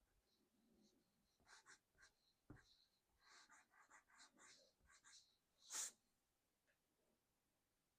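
Faint colored pencil strokes scratching on sketchbook paper in short runs, with a light knock about two and a half seconds in and a brief louder hiss near six seconds.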